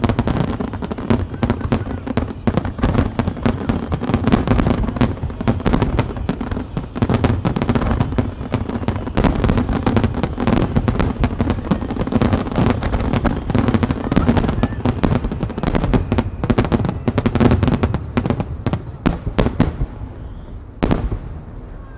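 Starmine fireworks finale: a dense, rapid barrage of aerial shell bursts, booms and crackle running together. It thins out near the end, with one last loud report.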